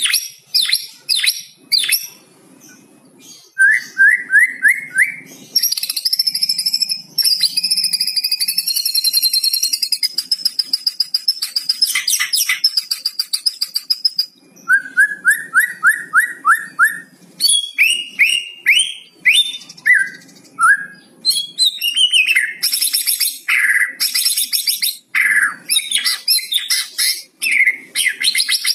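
White-rumped shama (murai batu) singing a varied song with rattling 'kretekan' phrases. It includes runs of quick repeated notes, a long trilled phrase, clear whistles and sharp clicks. This is a lure recording used to set caged shamas singing.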